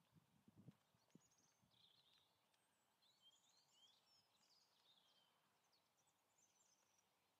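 Near silence with faint birds chirping and twittering, and a few soft low thuds in the first second.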